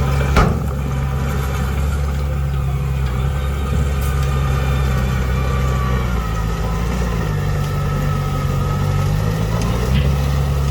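Heavy diesel engine of earthmoving machinery running steadily, with a sharp knock about half a second in; its note drops slightly about six seconds in and rises again near the end.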